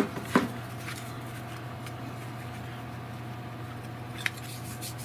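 Table saw running with no load, a steady hum, after a cut through hardwood. Two sharp knocks come right at the start and a lighter click comes near the end.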